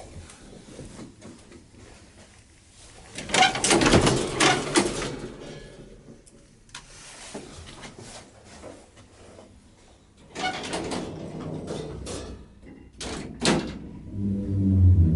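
Early-1990s Express Lift Co baggage lift working: several loud clattering, scraping bursts from its doors and mechanism, then near the end the lift's drive starts with a low hum and rumble.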